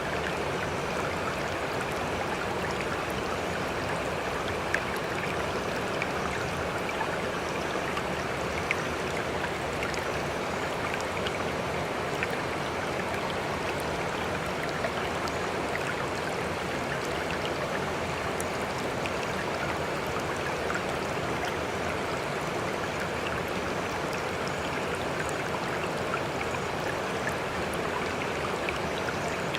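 Sea water making a steady, even noise with no wave swells, dotted with faint tiny splash-like ticks.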